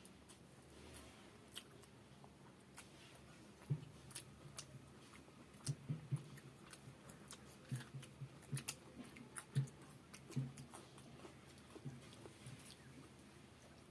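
A person chewing and eating a rice meal: irregular soft smacks and small clicks of the mouth, sparse at first and more frequent from about four seconds in.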